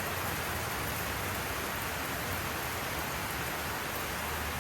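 Steady, even hiss with a faint low hum underneath, holding level throughout.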